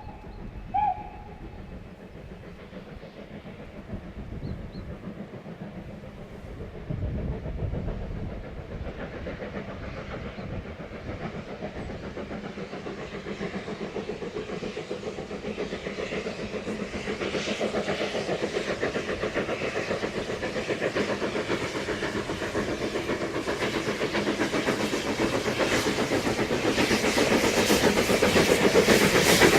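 Steam locomotive gives two short whistle toots at the start, then draws closer, its running sound a rapid beat that grows steadily louder.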